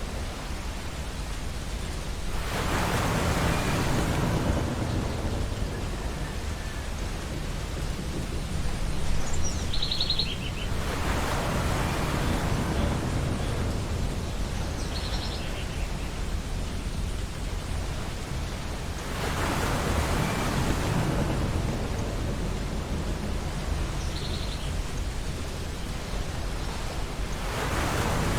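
Ocean surf breaking on a beach: a broad wash of waves swelling and fading about every eight seconds, four times, over a steady low rumble. A few short, faint, high bird calls come through between the waves.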